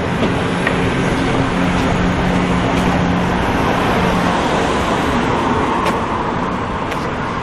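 Road traffic passing close by: a motor vehicle's engine hum that fades out about four seconds in, over steady rushing tyre noise that swells again near the end as another vehicle approaches.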